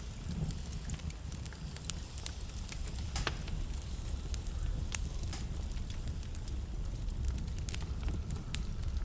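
Wood fire burning in a fireplace: a steady low rumble of flame with irregular sharp crackles and pops from the burning logs, the loudest pops about three and five seconds in.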